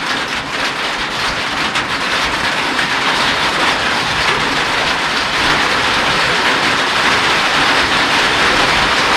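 Rain falling steadily in a dense, even hiss that grows a little louder toward the end.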